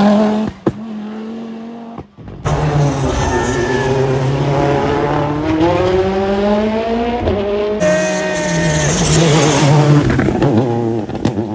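Rally car engines at full throttle in a few short clips cut together: after a brief drop near the start, one engine climbs steadily in pitch for about five seconds, then cuts abruptly to another engine running at high revs.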